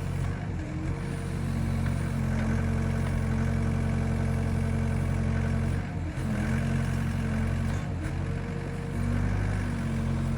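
Excavator engine running steadily, its note stepping up and down a few times.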